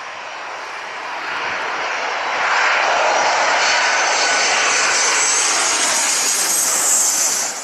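Ryanair jet airliner's engines running at high thrust as it goes around from an aborted landing. The sound swells over the first couple of seconds, holds loud with a rising high whine, then drops off sharply near the end.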